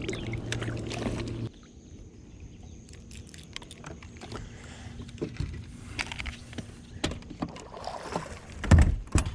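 A steady motor hum on a bass boat that cuts off suddenly about a second and a half in, followed by scattered knocks and clicks of handling in the boat and two heavy thumps near the end.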